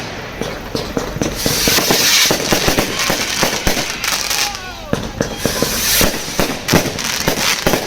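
Fireworks going off: a dense run of crackling, popping and bangs, with louder bursts of crackle about two and six seconds in and a brief whistle near five seconds in.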